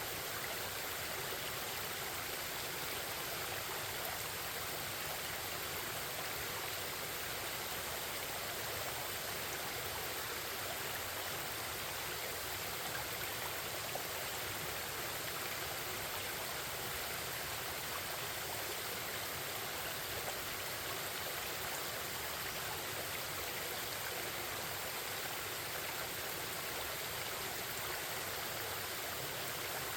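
Forest stream flowing, a steady babble of running water.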